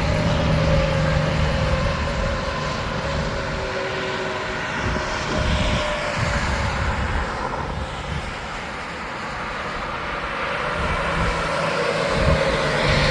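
Interstate highway traffic passing: tyre roar and engine drone from trucks going by. It eases off partway through and builds again near the end as another vehicle approaches.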